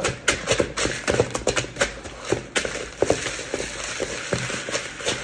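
Irregular crunching and crackling: an ice-cream popsicle and crisp cereal being mashed together, with many small cracks at an uneven pace.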